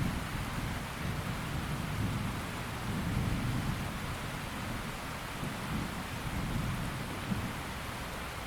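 Steady rain with low, rolling thunder that swells and fades several times, loudest right at the start.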